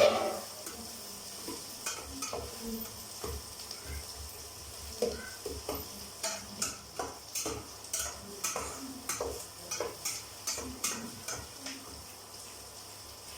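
Onions frying in hot oil in a pan, sizzling steadily, while a spatula scrapes and knocks against the pan as they are stirred, about two strokes a second. There is a louder knock at the very start.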